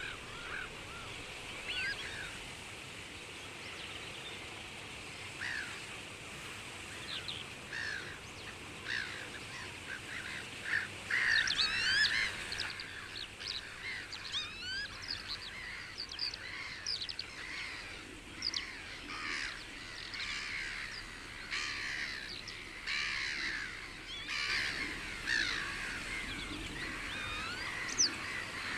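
Many small birds calling and chirping over a faint outdoor hiss, with a busier cluster of calls about eleven to thirteen seconds in.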